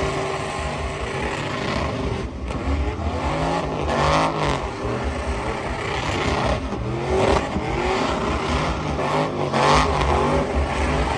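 Truck engines revving over and over, the pitch climbing and falling with each rev.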